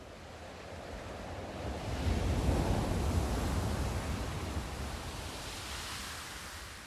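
One wave of sea surf: a swelling rush of water that is loudest and deepest about two seconds in as it breaks, then a hissing wash that fades away near the end.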